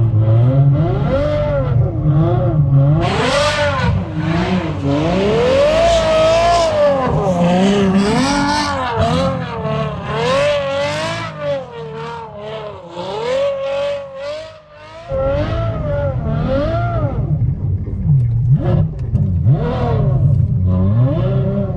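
Ferrari F12's V12 engine revving hard, its pitch swinging up and down with throttle changes, wheelspin and gear shifts as the car is driven on snow. It falls back to a quieter, lower note for a few seconds past the middle, then picks up suddenly again.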